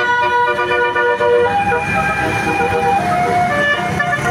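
A bus's multi-tone air horn (a 'telolet' horn) playing a tune: several steady notes sounding together, stepping to new pitches every half second or so, over a bus engine's low rumble.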